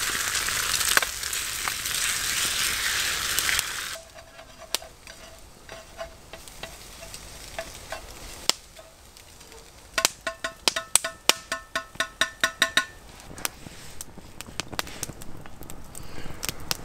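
Mushrooms frying in oil in a pan, sizzling strongly for about four seconds before the sizzle drops away suddenly. Then a utensil clicks and scrapes against the pan, with a quick run of about a dozen metallic clicks around ten to thirteen seconds in.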